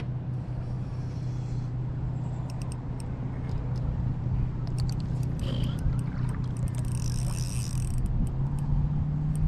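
Wind buffeting the microphone, with a steady low hum that steps up slightly in pitch near the end and scattered light clicks.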